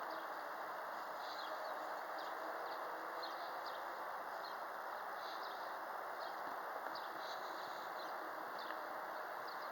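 Steady rushing of wind, with small birds chirping on and off over it.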